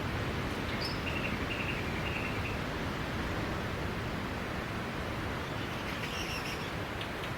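Steady wash of sea waves on a beach. Short high chirps come through it from about a second in and again near six seconds.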